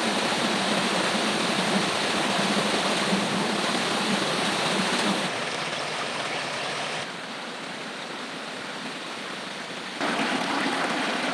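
Rushing river water, a steady dense rush that drops abruptly in loudness about five and again about seven seconds in, then comes back up near the end.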